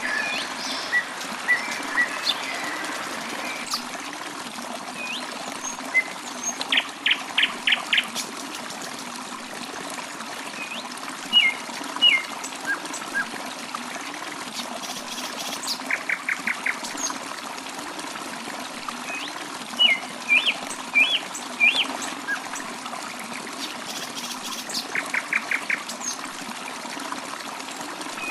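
Water trickling steadily, like a small stream, with birds singing over it. One bird repeats a quick run of about five short notes roughly every nine seconds, among scattered chirps and whistles from others.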